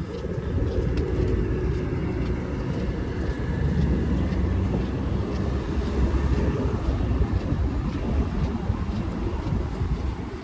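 Steady low rumble of road traffic passing along the street, with wind buffeting the microphone.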